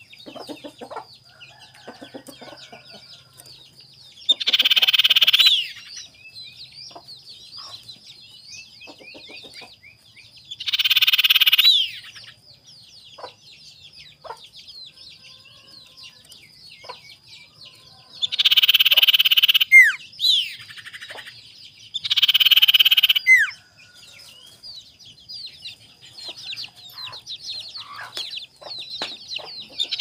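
Caged common iora giving loud, harsh, rasping calls: four bursts of about a second each. Between the bursts come softer short chirps over a thin, steady high tone.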